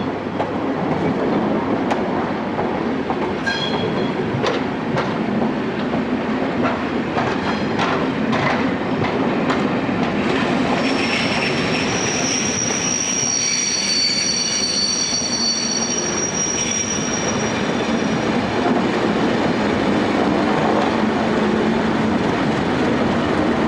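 Network Rail test train (Colas Rail class 37 locomotive 37175 with driving brake coach 9701) passing, a steady rumble of wheels on rail with clicks over the rail joints. From about halfway, the wheels give a high-pitched squeal for several seconds.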